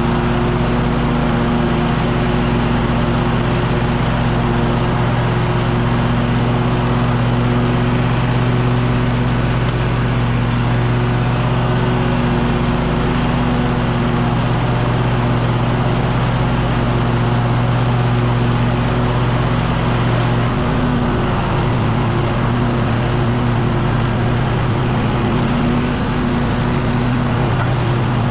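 Echo PB-9010T two-stroke backpack leaf blower running steadily near full throttle, a loud engine hum with a rush of air. The engine note shifts slightly about two-thirds of the way through.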